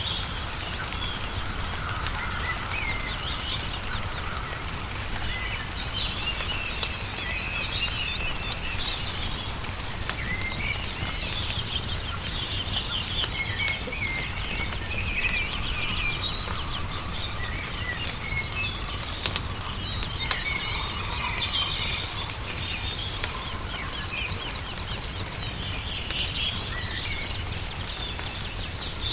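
Songbirds chirping and trilling continuously over the crackle of a wood fire, with scattered sharp pops and a steady low rumble beneath.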